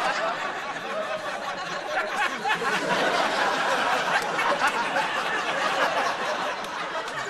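Studio audience laughing, a dense and sustained crowd laugh.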